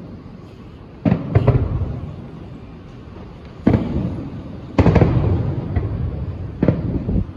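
Aerial fireworks shells bursting: about five sharp bangs at uneven gaps of a fraction of a second to a couple of seconds, each followed by a rumbling echo. The loudest pair comes just before the five-second mark.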